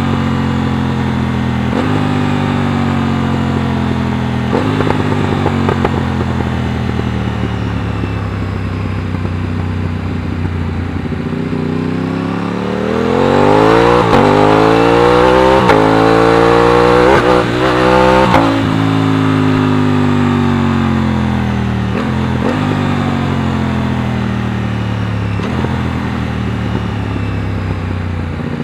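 Aprilia RS660's 659 cc parallel-twin engine under way, first at a fairly steady pace. About twelve seconds in the revs climb as the bike accelerates, with a few quick gear changes breaking the note. The revs then fall away as the rider eases off.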